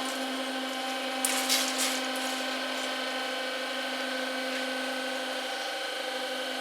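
Level crossing warning bell ringing steadily at a constant level, having switched on suddenly just before, with a few short clicks about a second and a half in.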